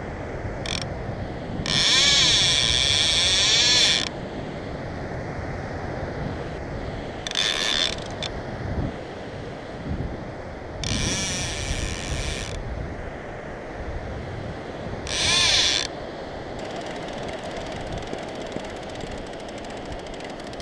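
Fishing reel drag buzzing in four separate runs as a hooked fish pulls line off against it: the longest, about two seconds, comes near the start, and shorter ones follow. A steady rush of wind and surf runs underneath.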